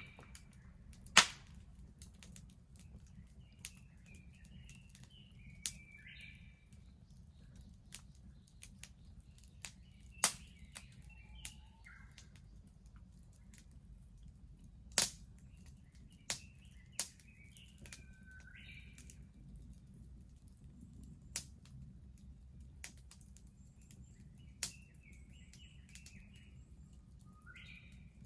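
Wood bonfire crackling with irregular sharp pops, the loudest about a second in, over a low steady rumble. Birds chirp in short bursts several times between the pops.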